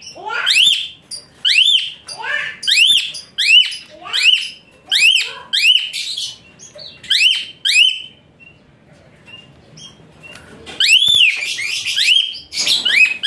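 Asian pied starling (jalak suren) singing loud, high, shrill whistled notes, each rising then falling, in quick series; the song pauses about eight seconds in and starts again near the end.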